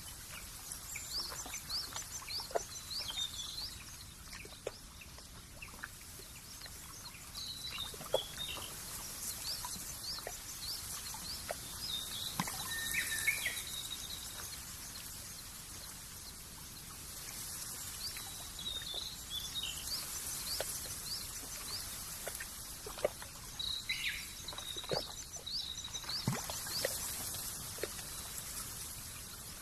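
Birds chirping in quick, short upward notes, with a few held whistles, over a soft high hiss that swells and fades every several seconds.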